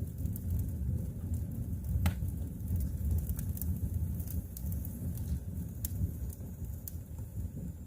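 Wood fire burning in a fireplace: a steady low rumble of the flames with scattered sharp crackles and pops, one louder pop about two seconds in.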